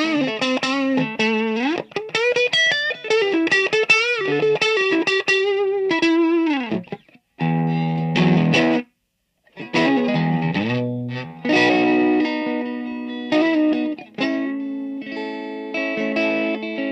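Classic 50s Telecaster electric guitar played through an amplifier with some distortion: single-note lead lines with string bends and vibrato, then, after two short breaks about seven and nine seconds in, held chords and notes.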